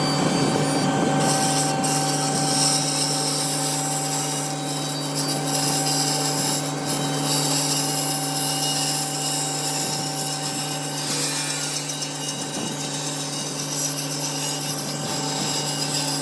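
Electric power tool running steadily with an even motor hum while cutting or sanding wood.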